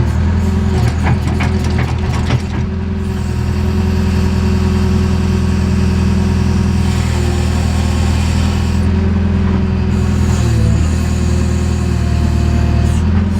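JCB backhoe's diesel engine running steadily under digging work, with a few short knocks and clanks from the digging gear about one to three seconds in.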